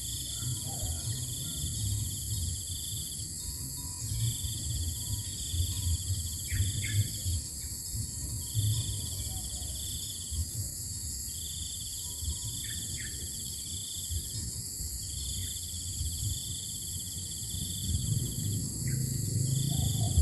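Insects trilling outdoors: a cricket-like trill comes in bursts of one to two seconds about every three seconds over a steady high-pitched insect hum, with a few brief chirps and a low rumble underneath.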